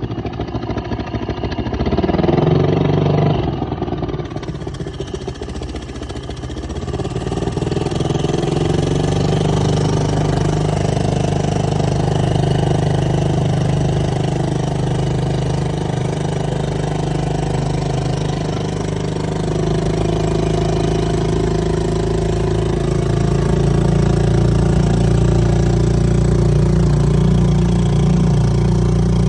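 A 2-horsepower outboard motor running. It revs up and back down briefly about two seconds in, then settles into steady running. The pitch shifts slightly about two-thirds of the way through, and it gets a little louder near the end.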